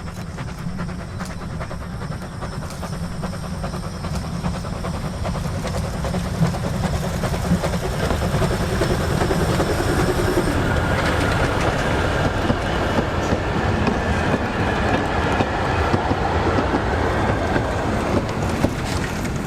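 Steam-hauled train running on rails, its wheels clacking over the rail joints, growing louder through the first half, with a faint high ringing added about halfway through.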